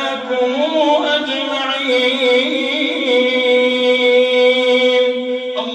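A man's voice in melodic Quran recitation (tajwid chant) draws out one long held note. The pitch wavers at first, then holds steady, and breaks off near the end.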